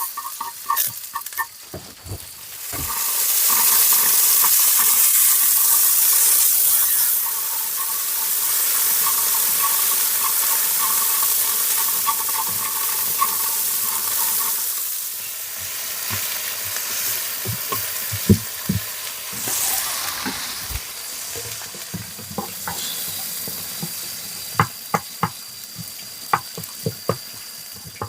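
Cassava frying in hot oil in a pan, sizzling. The sizzle swells loud about three seconds in and then settles. Through the second half a utensil stirs, scraping and tapping against the pan.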